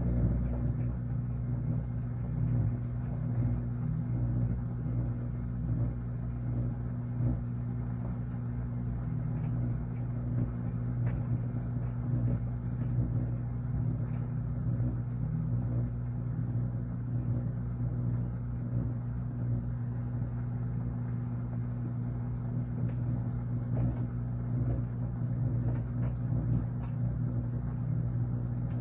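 Washing machine running: a steady motor hum over a low rumble, with small uneven swells as the drum turns.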